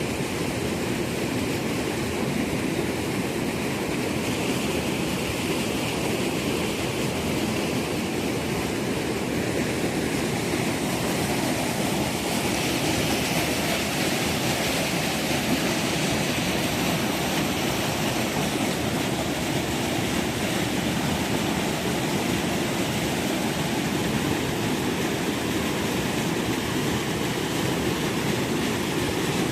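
Steady rain falling, a constant even hiss that gets a little brighter about halfway through.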